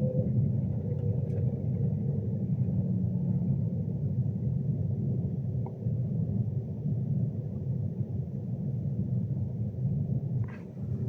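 Steady low rumble of a Class 390 Pendolino electric train heard from inside the carriage, wheels running on the rails. Near the start a faint whine slowly falls in pitch as the train slows on the approach to a station.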